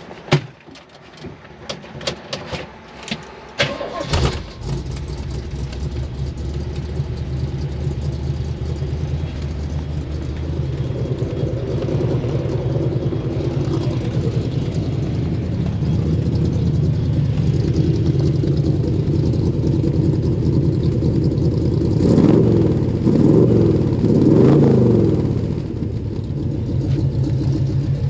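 1973 Jeep CJ5 engine starting after a few clicks, catching about four seconds in, then idling steadily. Near the end it is revved up and down three times before settling back to idle.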